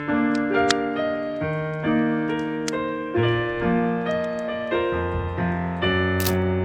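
Background piano music: a gentle melody of held notes changing about every half second.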